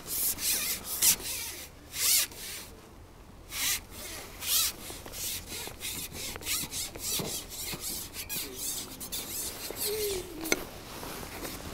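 Irregular rubbing and rasping strokes as a fishing pole is shipped back and the tackle handled to bring in a hooked roach. A short squeak and a sharp click come near the end.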